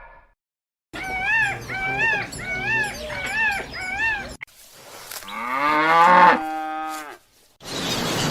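A cow mooing once in a long call that rises and then holds steady, the loudest sound here. Before it comes a series of five short, evenly spaced arched calls from another animal.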